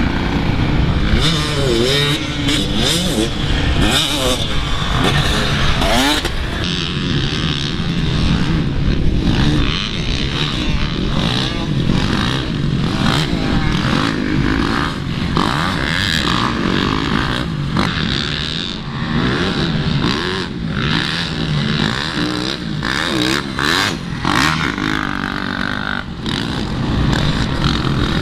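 Motocross dirt bike engines revving and racing, their pitch rising and falling as they accelerate and shift, with several bikes overlapping.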